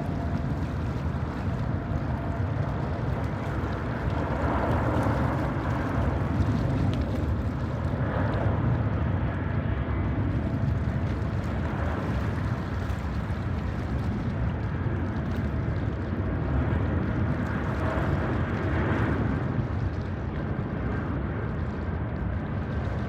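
Steady low rumble of wind on the microphone, with the faint drone of a distant jet airliner's engines.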